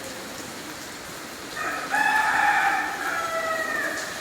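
A rooster crowing: one long call starting about a second and a half in and falling in pitch near the end, over a steady hiss of rain.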